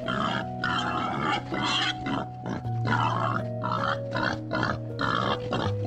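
Young wild boars grunting in short, repeated calls, roughly two a second, over gentle background music with long held notes.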